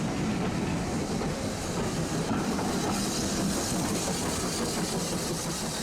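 Train running along the track: a steady rumble with wheels clicking over the rail joints, the clicks coming thick and fast in the second half.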